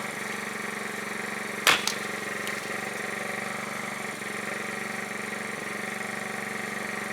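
A generator engine running steadily with an even hum. About a second and a half in, one sharp crack of a splitting axe striking wood, with a small knock just after.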